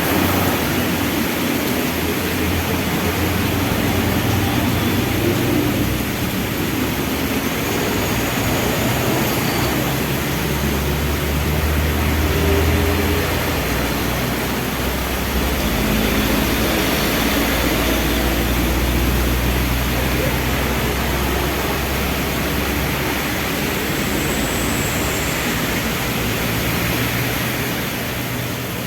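Heavy rain falling steadily, mixed with the low hum of vehicle engines in traffic, which grows louder for several seconds in the middle as vehicles run close by.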